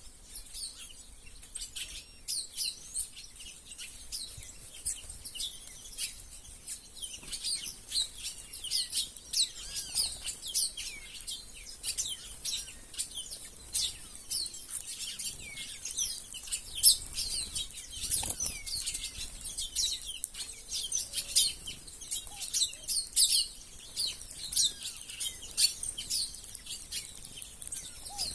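A flock of small wild birds chirping, with many short, high calls overlapping almost without pause.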